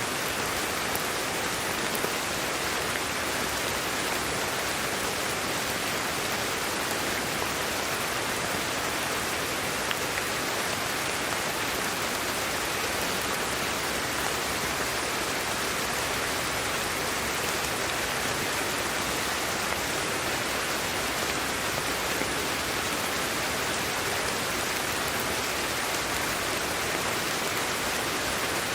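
Steady, unchanging sleep-aid white noise: an even hiss, brightest in the upper range and much like heavy rain.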